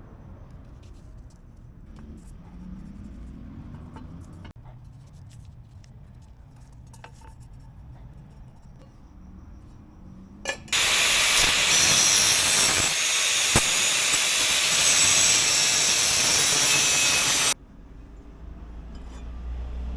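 A loud, steady hiss starts just after a click about ten and a half seconds in and cuts off suddenly about seven seconds later, like pressurised air or spray from a nozzle. Before it there is only a faint low hum with a few light clicks.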